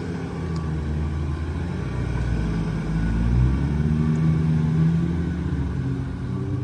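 Truck engine revving under load during a recovery pull on a stuck tow truck, rising in pitch and loudness to a peak in the middle and then easing off.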